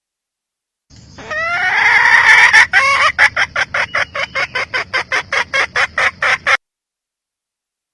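Junglefowl hen calling: a drawn-out wavering note, then a fast run of short clucks, about five a second, that stops abruptly.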